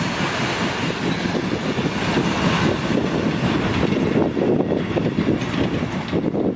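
A train rolling past on the rails, a steady rumble of wheels and wagons that begins to fade near the end.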